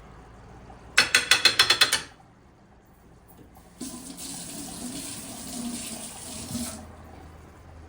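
A rapid run of about nine sharp clicks lasting about a second. Then a kitchen tap runs for about three seconds and is turned off.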